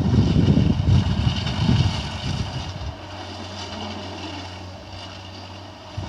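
Diesel engine of a Komatsu PC200 forestry excavator. It runs with an uneven, surging low rumble, then about halfway through settles to a steady low hum, as when the machine eases off to idle.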